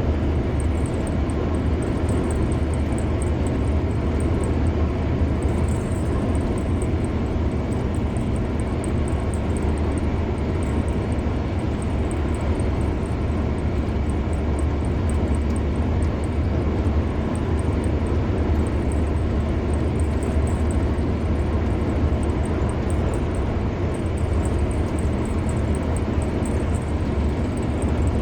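Steady road noise of a car driving at speed: an even low rumble of tyres and engine with a hiss above it, unchanging.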